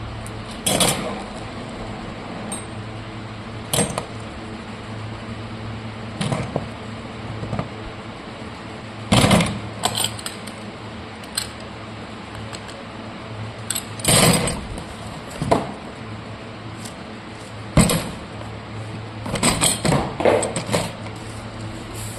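Irregular clattering and knocking of hard objects being handled, a dozen or so sharp knocks spread unevenly, over a steady low hum.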